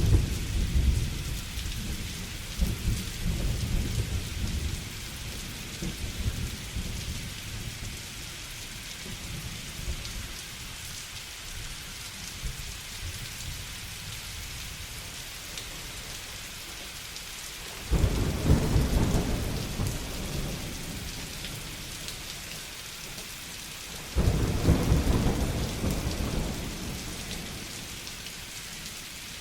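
Thunderstorm with steady heavy rain. Thunder rumbles and dies away over the first few seconds; later two sudden claps, about six seconds apart, each roll off slowly.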